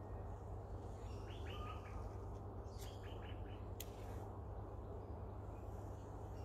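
A bird chirping: two quick runs of three or four short, high notes, about a second and a half apart, over a low steady hum.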